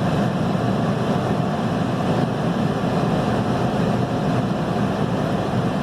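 Diesel engine of heavy earthmoving equipment running steadily, with an even drone that holds constant.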